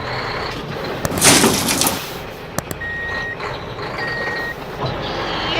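Truck reversing alarm: two steady single-pitch beeps about a second apart, over a low vehicle rumble, after a short loud hiss a little over a second in, like an air brake releasing.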